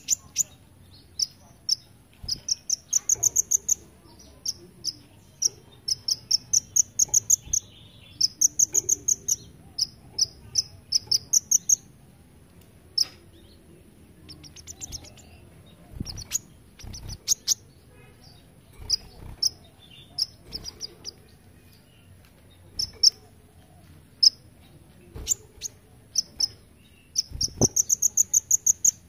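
Kolibri ninja sunbird singing: bursts of rapid, high, trilled notes repeated in phrases with short pauses between, an insect-like song of the kind bird-keepers call the 'belalang emas' (golden grasshopper) song. A few sharp clicks come in between.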